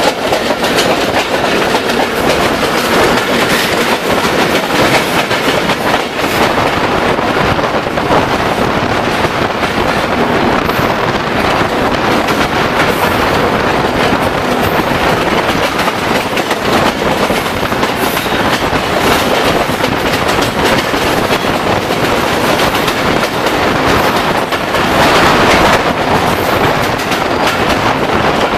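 Passenger train running at speed on double-line track, heard close up from an open door of its coach: a steady, loud rumble and rush with the clickety-clack of wheels over rail joints. It grows briefly louder about 25 seconds in.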